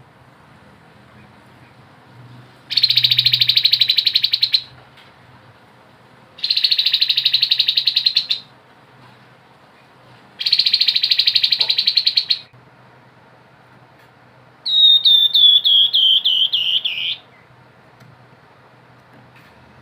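Grey-headed babbler singing: three rapid, buzzy rattling trills of about two seconds each, spaced about two seconds apart, the 'ngebren' song prized by keepers. These are followed by a quick run of down-slurred whistled notes that fall in pitch.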